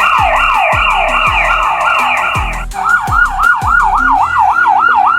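Police car siren in a fast yelp, about three sweeps a second, switching just under three seconds in to a quicker, cleaner yelp of about four sweeps a second.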